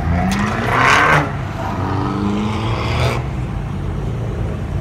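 A car engine idling and being revved twice, the pitch rising each time. The first rev is loud and harsh; the second cuts off sharply as the throttle is released.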